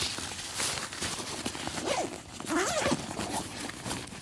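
Packing sounds: a bag's zipper being pulled, with fabric rustling, as a continuous rasp.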